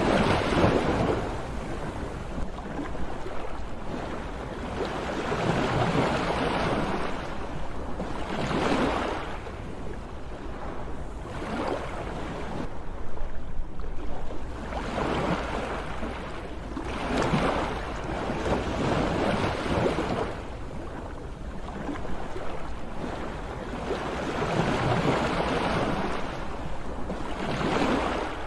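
Sea waves breaking in repeated surges that swell and fall away every few seconds, over a steady low rumble.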